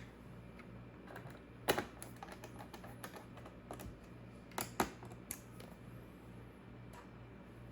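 Typing on a laptop keyboard: a handful of irregular key clicks, the loudest two pairs about a second and a half in and near the middle, over a faint steady hum.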